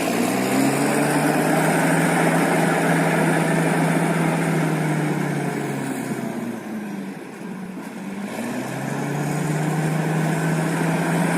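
Toy bulldozer's sound effect: a recorded engine running steadily at one pitch. It dips in loudness briefly past the middle, then comes back up.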